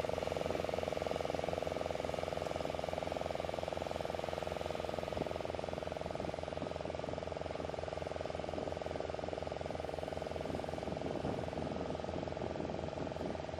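An engine running steadily, with a strong even hum and a fast low pulsing underneath.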